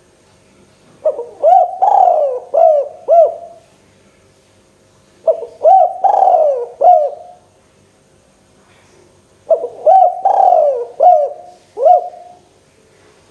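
Spotted dove (tekukur) cooing: three repeated song phrases a few seconds apart, each a short run of about five notes, with a longer drawn-out note in the middle.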